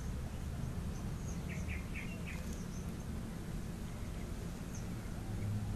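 A bird chirping four quick notes about a second and a half in, with a few fainter, higher chirps scattered through, over a steady low rumble.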